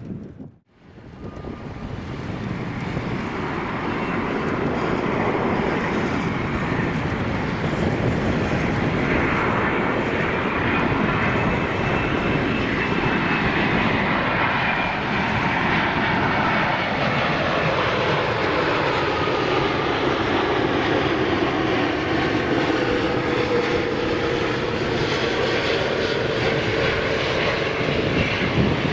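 Boeing 787-8 airliner on landing approach, its jet engines swelling in over the first few seconds and then running loud and steady, the engine whine gliding slowly lower as it passes.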